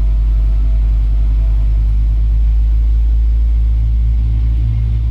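Steady low rumble of a Boeing 777's engines and airflow heard inside the passenger cabin, with the aircraft on the ground waiting for takeoff.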